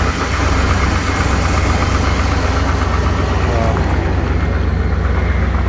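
1998 K1500 pickup engine idling cold with a steady rapping from the valvetrain, louder on the passenger side. The owner thinks the valves probably need adjusting.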